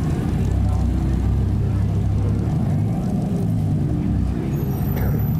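Devon GTX's modified Dodge Viper V10 running at low revs as the car rolls slowly across the grass, a deep, steady engine note with slight swells in pitch.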